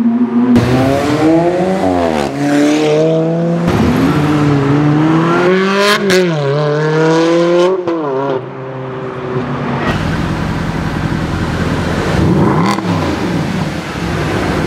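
Sports car engine accelerating hard, its revs climbing and falling back several times as it shifts up. About two-thirds of the way in, a rougher engine sound takes over, with a brief rise and fall in pitch as a car passes.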